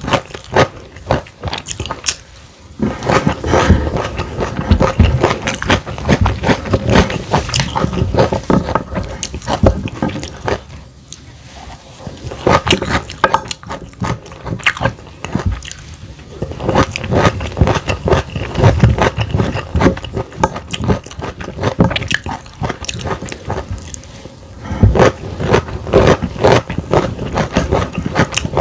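Close-miked eating sounds: a person biting and chewing cooked vegetables and fried egg, a dense run of irregular crunchy clicks with a few short pauses.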